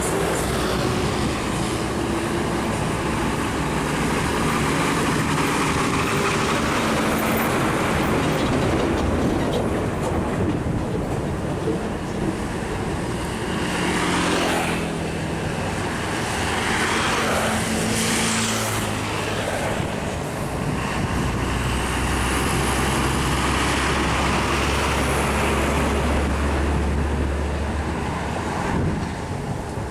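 Heavy road traffic: trucks and other vehicles running in slow-moving congestion. Around the middle an engine note falls in pitch as a vehicle goes by, and in the latter part a deep, steady heavy-engine rumble dominates.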